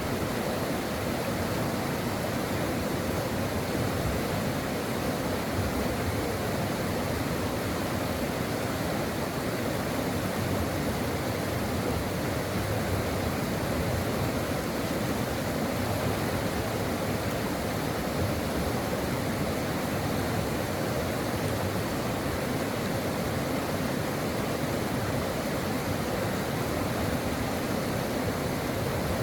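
Brook water rushing in a steady, unbroken flow.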